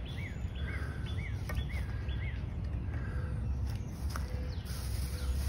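A songbird singing a run of repeated rising-then-falling whistled notes, about two a second, that stops a little over two seconds in, over a steady low background rumble.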